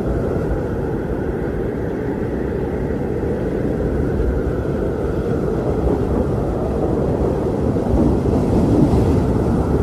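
Strong wind blowing steadily, a deep rushing sound that swells a little near the end.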